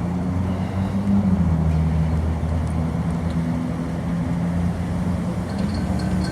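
A motor vehicle's engine running, a low hum that drifts slightly in pitch, over road noise.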